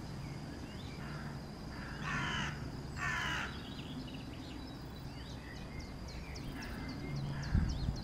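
A bird gives two harsh calls, each about half a second long, about two and three seconds in. Small birds chirp in short high notes throughout, more often near the end, over a low steady background hum.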